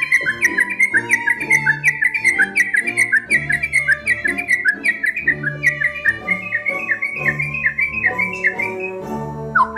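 White-rumped shama (murai batu) singing a fast, steady run of short whistled notes, about three to four a second, breaking off briefly near the end.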